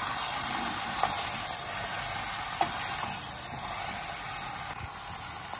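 Chicken pieces and dry spice powders sizzling in oil in a stainless steel pot as they are stirred with a spoon. There is a steady frying hiss, with a few sharp clicks of the spoon against the pot, the first about a second in.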